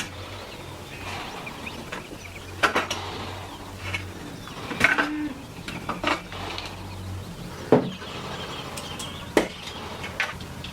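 Irregular sharp knocks and clicks of hard objects being handled or tapped, about a dozen spread unevenly, over a faint low hum that stops about seven seconds in.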